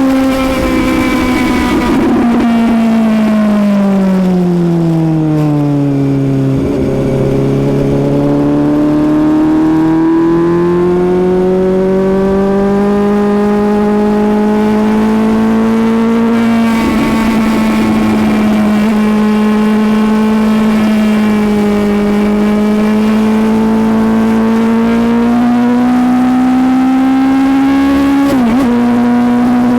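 Suzuki GSX-S750 inline-four engine running hard while being ridden. Its pitch falls for a few seconds early on as the bike slows, climbs back gradually, holds fairly steady, then rises near the end and drops suddenly, like a gear change. Wind rush comes and goes underneath.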